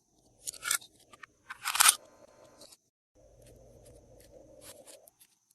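Glossy slime being handled with crunchy mix-ins. Two loud crunches come about half a second and about two seconds in, then quieter squishing for a couple of seconds.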